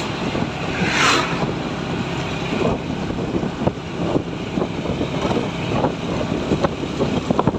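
Truck driving fast: steady engine and road rumble with many short rattles and knocks, and a brief hissing surge about a second in.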